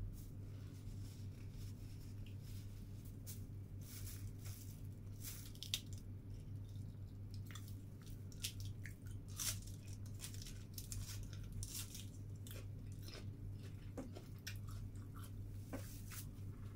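A person chewing and biting crisp lettuce close to the microphone, with irregular crunches and crackles. A steady low hum runs underneath.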